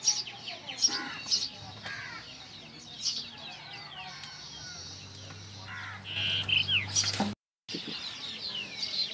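Small birds chirping and twittering, many short quick calls overlapping, with the sound cutting out briefly about seven seconds in.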